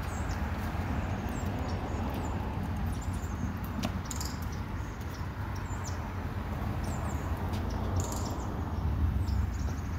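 Small birds chirping, short falling chirps about once a second, over a steady low rumble, with one sharp click about four seconds in.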